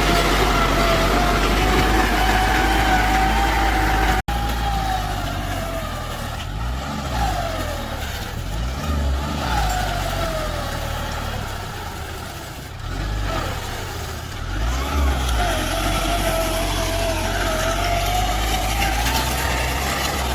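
Tractor engine running under load with a steady whine, its pitch falling several times as the revs drop. The sound cuts out abruptly for an instant about four seconds in, then carries on.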